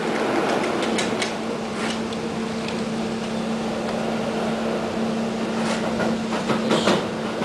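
EN57 electric multiple unit running between stations, heard from inside the carriage: steady rolling noise with a steady hum that stops near the end, and a few short clicks from the wheels.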